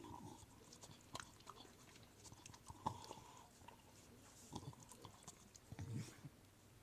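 A dog licking and chewing Dairy Queen Blizzard ice cream, faint wet smacks and clicks coming every second or so.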